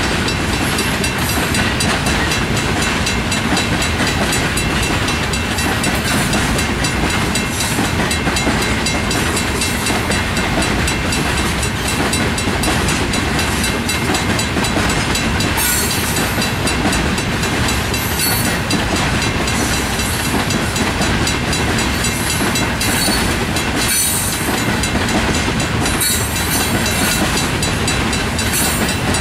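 Freight train of tank cars rolling past a grade crossing: steel wheels running on the rails, a loud, steady noise that goes on without a break.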